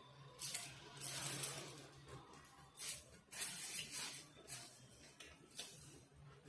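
Eating sounds close to the microphone: irregular short bursts of chewing and biting, with a faint steady low hum under them.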